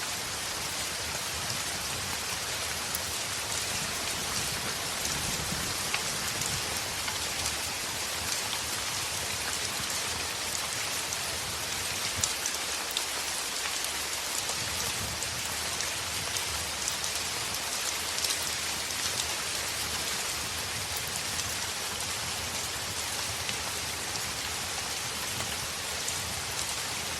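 Heavy rain falling steadily, with scattered sharp ticks of individual drops over the constant hiss.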